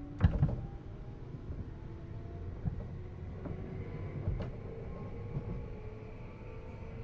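Cabin running sound of a JR East 211 series 3000-subseries electric train: steady rumble of the wheels on the track with a faint motor and gear whine slowly rising in pitch as the train picks up speed. A sharp double clunk from the running gear comes about a quarter second in, and a lighter knock a little after four seconds.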